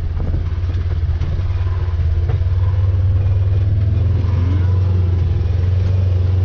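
Engine of a farm vehicle running steadily at low speed, a deep even hum that grows slightly louder after about two seconds.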